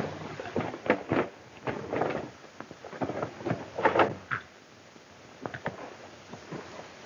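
A run of irregular knocks and thumps, bunched in two clusters about a second and about four seconds in.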